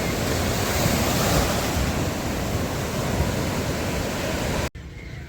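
Sea surf washing on a beach, with wind buffeting the microphone. Cuts off abruptly near the end to a much quieter scene.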